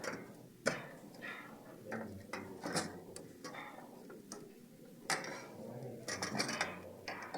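Irregular sharp clicks and short scrapes of a screwdriver and metal computer-case parts while a power supply unit is unscrewed and taken out of the case.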